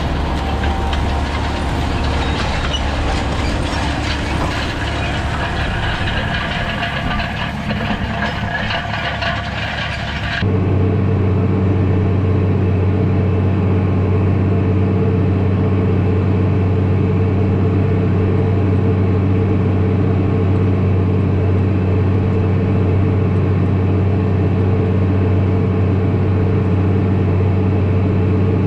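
Tractor engine running steadily. About ten seconds in the sound cuts abruptly to a deeper, even engine drone that holds steady.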